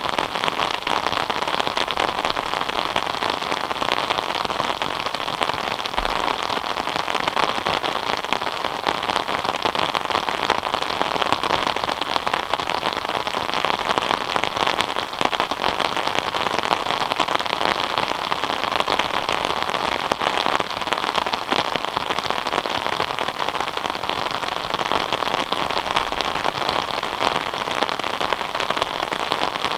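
Steady rain falling: a dense, even patter of many drops that keeps on without let-up.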